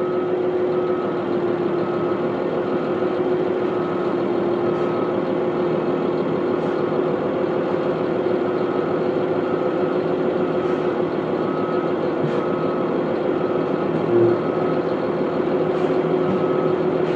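Heavy engine running steadily while a backup alarm beeps about once a second, in runs with pauses between them.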